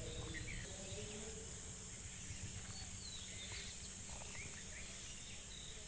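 Outdoor rural ambience: a steady high-pitched insect drone with scattered short bird chirps over a low steady rumble.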